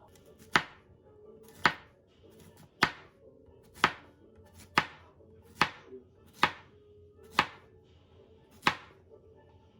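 Kitchen knife chopping on a cutting board: nine slow single strokes, about one a second.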